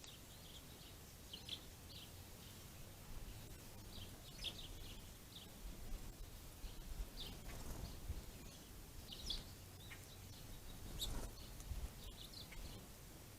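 Small songbirds chirping, many short chirps scattered at irregular intervals, over a faint steady low rumble.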